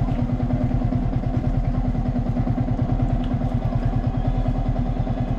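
Motorbike engine idling steadily, with an even rapid low pulse.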